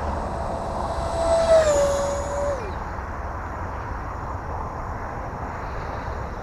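E-flite F-15 RC jet's electric ducted fan on a full-speed pass: a steady high whine that grows loudest about a second and a half in, drops in pitch as the jet goes by, and fades away before the three-second mark.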